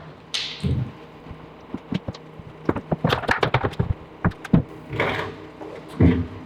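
Newly hung wooden shop-cabinet doors and cabinet boxes being handled: a short swish, then a quick run of sharp clicks and knocks about three seconds in, with a few dull thumps.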